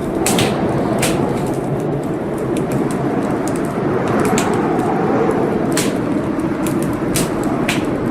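Wood fire burning in a fireplace: a steady rush of flames with frequent sharp crackles and pops from the burning logs.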